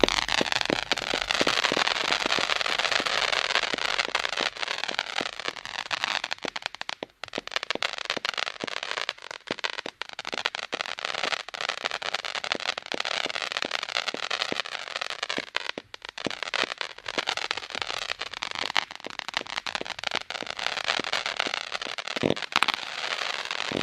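A 96-shot zipper cake firing its shots in very quick succession, a continuous rapid crackling stream with no break, and tones that sweep down in pitch running through it.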